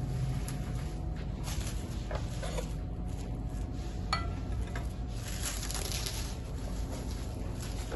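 Plastic cling film being pulled and pressed over meat, rustling and crinkling in several short bouts, with one sharp clink about halfway through, over a steady low hum.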